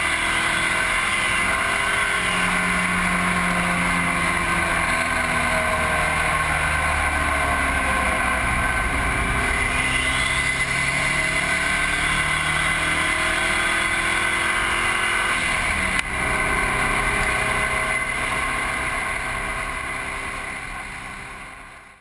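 Mitsubishi Lancer Evolution VIII's turbocharged four-cylinder engine at racing speed on a track, its pitch rising and falling as it revs, under heavy wind and road noise. The sound fades out over the last few seconds.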